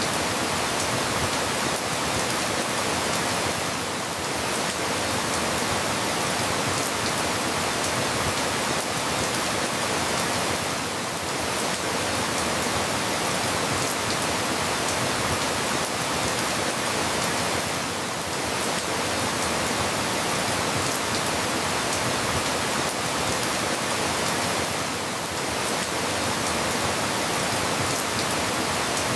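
Steady rain falling, an even hiss with a slight dip in level about every seven seconds.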